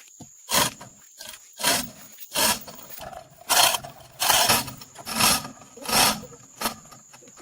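Repeated rasping hand strokes, like filing or abrading a surface, about seven in a row at roughly one a second, each under half a second. A faint steady high whine sits underneath.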